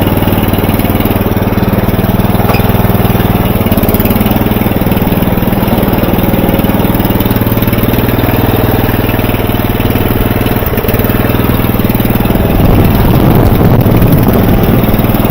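The engine of a vintage Murray 11/36 riding lawn mower running steadily while mowing, getting a little louder about three-quarters of the way through.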